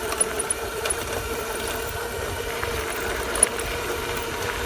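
Dirt bike engine running steadily while riding, a constant drone, with wind rumbling on the microphone.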